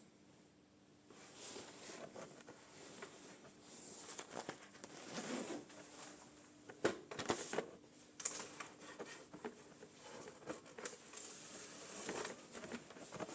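Irregular clicks, knocks and rustling of objects being handled close to the microphone, with no machine running.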